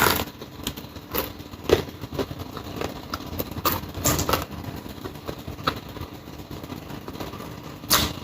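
Close-miked eating sounds: chewing with irregular crunches, clicks and knocks, a few louder than the rest, over a steady low hum.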